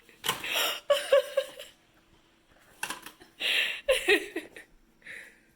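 A person laughing and giggling in two breathy bursts, with a short one near the end.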